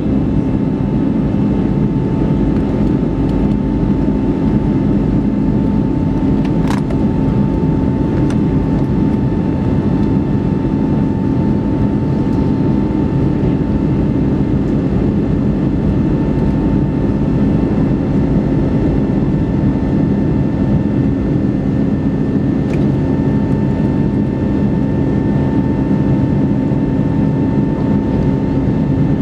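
Steady cabin drone of an Airbus A321neoLR in flight, heard from a seat by the wing: its Pratt & Whitney geared turbofan engines' low rumble with steady humming tones over rushing air.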